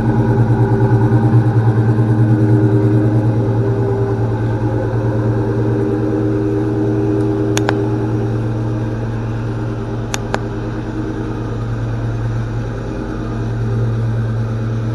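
Ford Mustang engine idling just after a cold start, having sat unstarted for about a month and a half. The idle is steady and gets a little quieter partway through, with two brief clicks in the middle.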